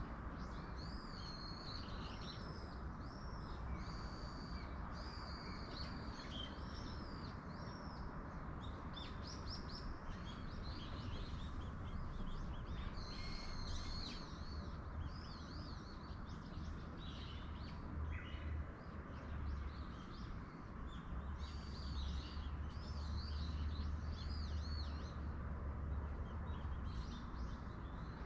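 Small songbirds chirping over and over in short, high, arched notes, over a steady background of wind noise with a low rumble.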